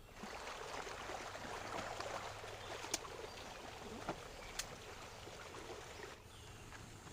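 Water trickling and splashing, with a few short sharp knocks around the middle; it dies down about six seconds in.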